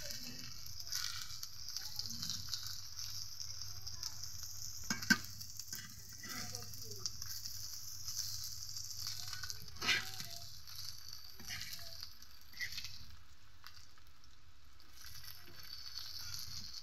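Jute-leaf fritters sizzling in shallow oil in an iron karahi, a steady frying hiss that thins briefly near the end. A metal spatula scrapes and knocks against the pan a few times, sharpest about five and ten seconds in.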